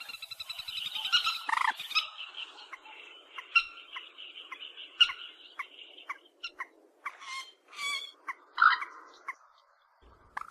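Calls of the bird sold as 'cuốc biển', a crake of the rail family: an irregular run of short, sharp clicking notes and brief harsh calls, with a few louder calls among them and a short pause just before the end.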